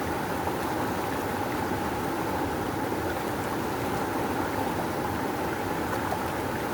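Rushing river water flowing strongly, a steady, even roar of current without a break.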